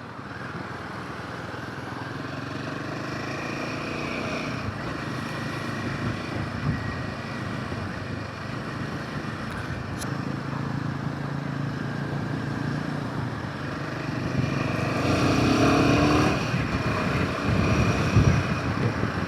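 Royal Enfield Himalayan 450's single-cylinder engine running on the move, with wind and road noise, growing louder for a couple of seconds near the end.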